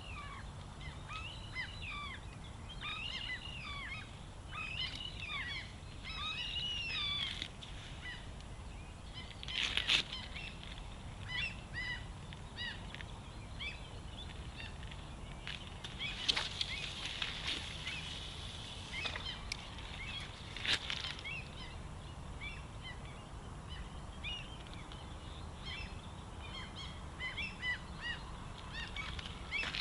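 Many birds calling over and over in short, rising-and-falling notes, several at once. A brief rustle or knock stands out about ten seconds in, with a few fainter ones later.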